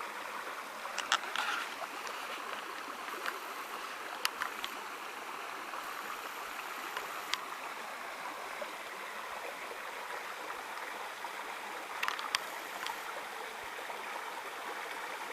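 Small, shallow stream running steadily over stones, an even rush of water, with a few short sharp ticks over it, a pair about a second in and another pair near the end.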